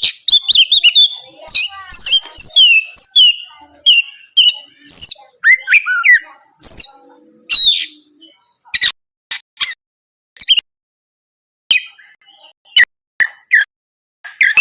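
Oriental magpie-robin singing loudly: a rapid run of varied whistles, slurred notes and chirps over the first half, then sparser sharp single notes with a short pause.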